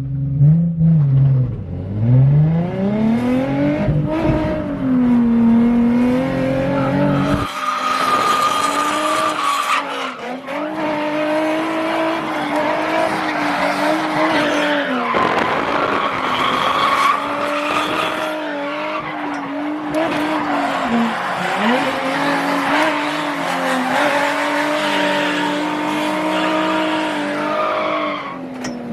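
Drift car engine revving hard, its pitch rising and dropping again and again through a drift run, with tyres squealing and skidding. The tyre noise grows heavy from about a quarter of the way in.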